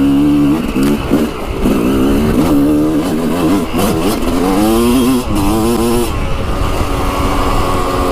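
Dirt bike's single-cylinder engine being ridden, its revs rising and falling several times with the throttle, then holding steadier near the end.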